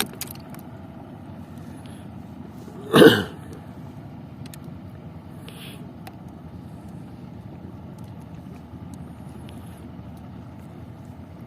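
Steady low rumble of a boat out at sea. About three seconds in there is a single short grunt-like vocal sound.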